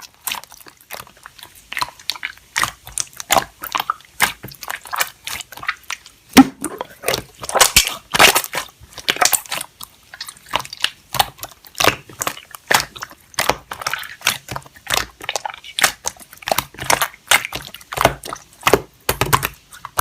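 Slime being squished and pressed by hand, giving a steady stream of wet clicking and popping sounds.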